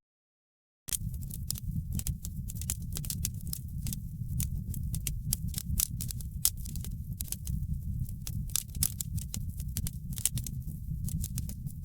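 Wood fire in a fireplace crackling, with dense irregular pops and snaps over a steady low rumble of the flames. The sound drops out completely for about the first second, then comes back.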